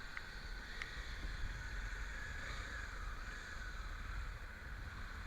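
Honda Tornado single-cylinder motorcycle engines idling: a low, steady rumble.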